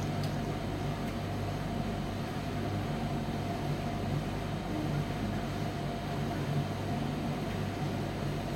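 Commercial Primus tumble dryer running: a steady, even hum of the turning drum and fan.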